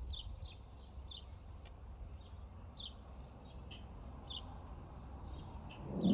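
A small bird chirping repeatedly, short high chirps about once or twice a second, over a steady low rumble, with a thump right at the end.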